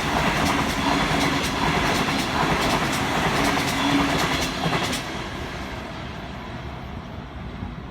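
Sydney Trains Tangara electric train passing through the station, wheels clicking over the rail joints. The noise drops off about five seconds in as the last carriages pass.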